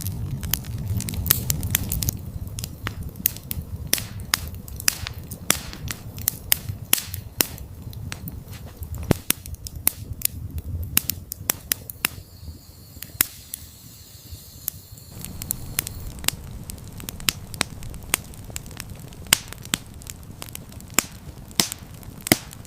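Campfire crackling, with many irregular sharp snaps and pops over a low rumble of burning wood; the rumble drops away for a few seconds in the middle, then returns.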